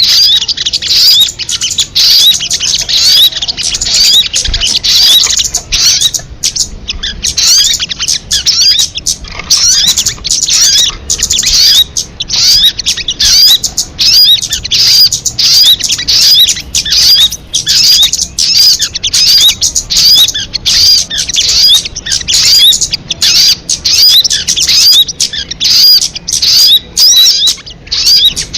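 Recorded song of a sogon bird: rapid high chirps strung into short, loud phrases that repeat one after another with hardly a pause.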